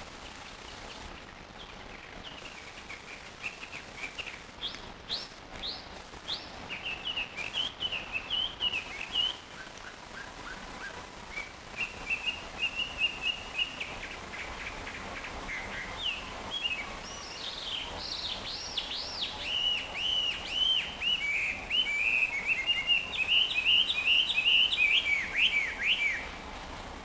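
Chinese hwamei (Garrulax canorus) practising its song: a varied run of fast, bending whistled phrases, softer and broken at first, then louder and more continuous in the second half, stopping suddenly near the end.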